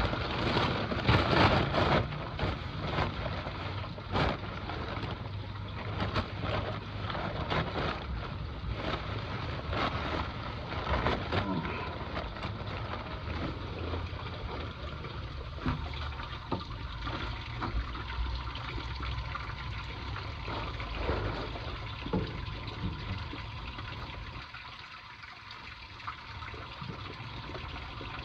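Water running and trickling from a leaking copper hot-water pipe, a steady hiss with scattered clicks and knocks.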